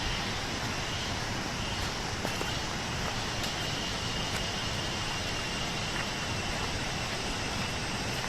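Steady rush of a fast-flowing rocky river, with a faint continuous high trill of crickets over it.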